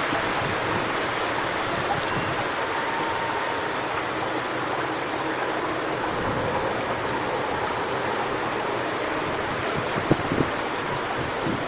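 Strong wind rushing through coconut palm fronds, a steady noise, with a few low gusts buffeting the microphone near the end.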